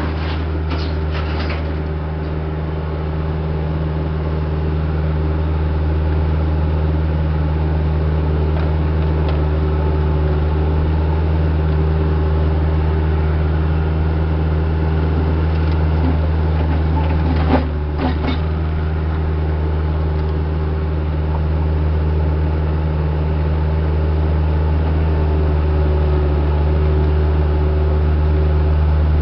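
Heavy equipment's diesel engine running steadily at a constant speed, with two sharp knocks about half a second apart a little past halfway.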